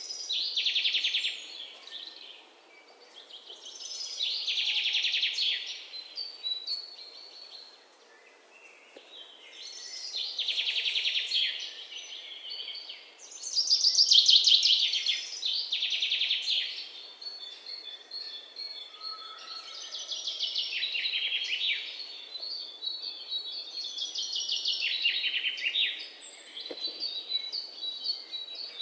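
Songbirds singing: rapid trilled phrases of about two seconds each, repeated every few seconds, with softer twittering between them over a faint steady background hiss.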